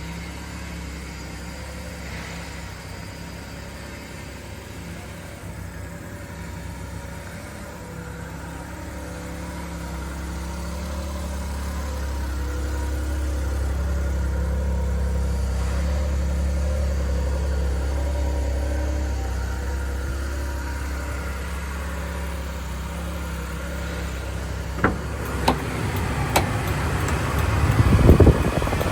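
1998 Suzuki Carry kei truck's small three-cylinder engine running steadily. It grows louder about a third of the way in, then eases off. Near the end come a few sharp clicks and a loud low rumbling burst.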